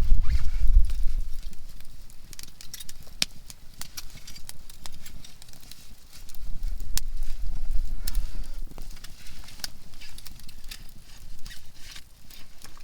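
Softwood firewood crackling in a campfire, with sharp pops scattered irregularly throughout. A low rumble sits under it near the start and again about six to nine seconds in.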